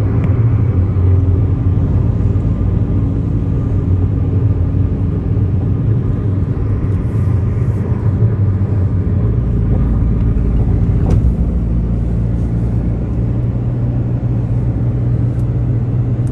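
Steady road and engine drone heard from inside a moving car, a low rumble with a single sharp click about eleven seconds in.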